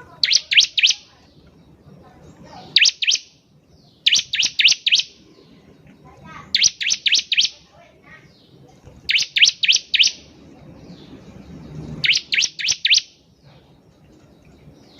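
Bar-winged prinia (ciblek) calling in short bursts of three to five rapid, high, sharp notes, the bursts repeating every two to three seconds.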